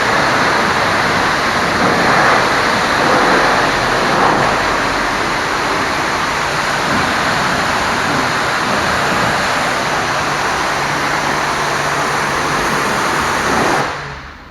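High-pressure washer spraying water onto a truck, a loud steady hiss of spray that cuts off suddenly near the end.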